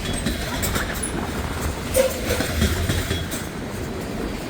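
Long freight train rolling past, its wheels clicking over jointed rail, with strong gusting wind buffeting the microphone.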